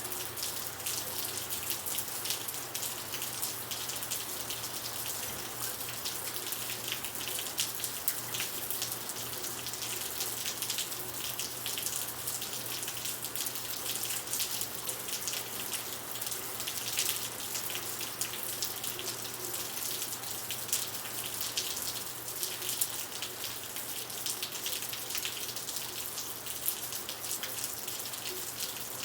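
Steady rain falling, a dense patter of many small drops with a continuous hiss.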